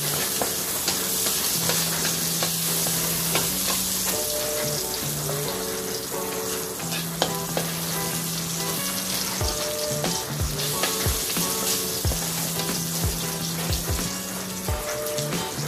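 Chopped garlic and onion sizzling in hot oil in a large wok, stirred with a wooden spatula that ticks and scrapes against the pan. Soft music of held notes plays underneath.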